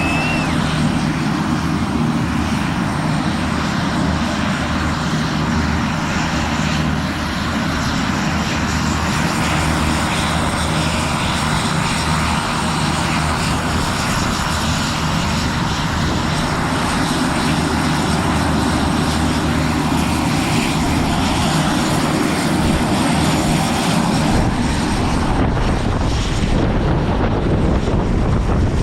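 Let L-410 Turbolet twin-turboprop jump aircraft running steadily, its propellers giving a low pulsing drone. Near the end the engine tone fades under rising wind noise.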